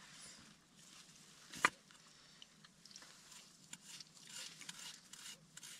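A person chewing and eating close to the microphone: soft, scattered mouth and food noises, with one sharp click about one and a half seconds in.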